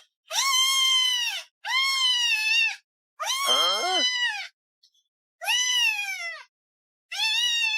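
Domestic cat meowing loudly and repeatedly: five long meows, each about a second long, rising and then falling in pitch. A lower second call overlaps the middle meow.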